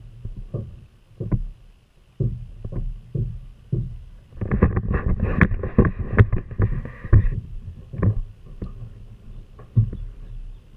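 Irregular knocks and bumps on a kayak, with a busier flurry of rattling knocks in the middle lasting about three seconds.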